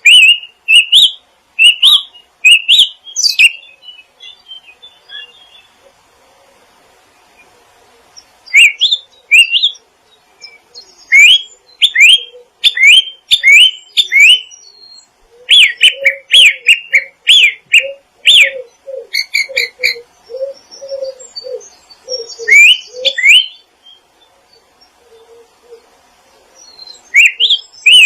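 Small songbirds chirping in bouts of quick, repeated upward-sweeping notes, with quieter pauses between bouts. Through the middle stretch a lower repeated note sounds under the chirps.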